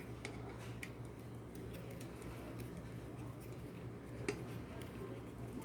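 Scattered light clicks and ticks, with one sharper click about four seconds in, over a steady low hum.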